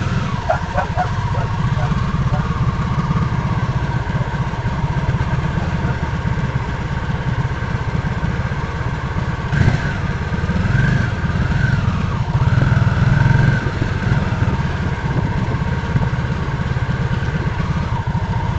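Harley-Davidson motorcycle V-twin engine running with a steady, pulsing low rumble.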